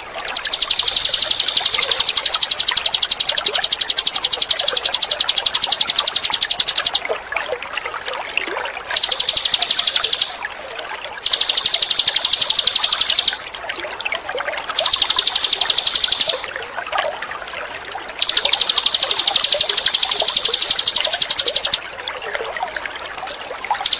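Ninin eurih bird song playing as long, very fast, high buzzing trills, five of them, from about seven seconds down to about a second and a half each, with short pauses between. Trickling, pouring water runs under them throughout.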